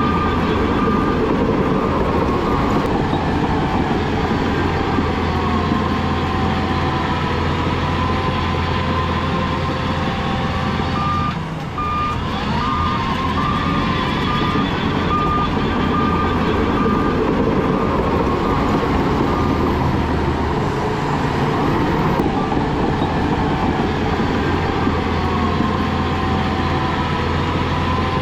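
Heavy diesel earthmoving machinery running steadily with a deep engine drone, while a reversing alarm beeps at intervals, most clearly near the start and again from about the middle.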